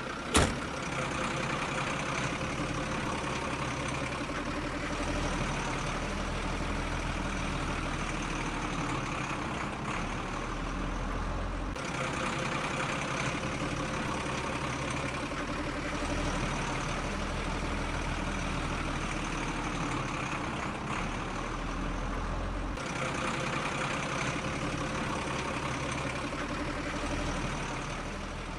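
Truck engine running steadily at idle, with a sharp click about half a second in.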